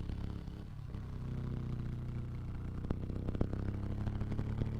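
Motorcycle engine running steadily, its pitch rising gently from about a second in as it pulls uphill, with a few faint ticks.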